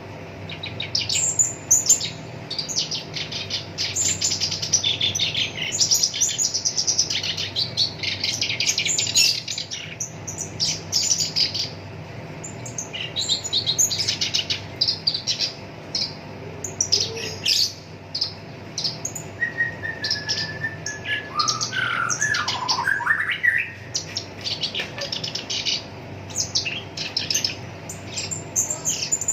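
Black-browed reed warbler singing: long runs of fast, harsh, high chattering phrases broken by short pauses. About two-thirds of the way through come a lower held whistle and a few swooping phrases. A faint steady hum lies underneath.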